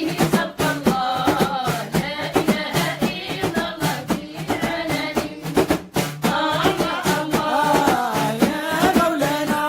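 Devotional dhikr singing with a steady drum beat under the melodic voice.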